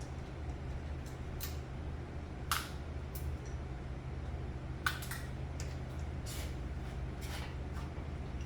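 Scattered sharp metallic clicks and taps of a valve spring compressor and valve keepers being worked on an engine's valves, about eight in all, over a steady low hum.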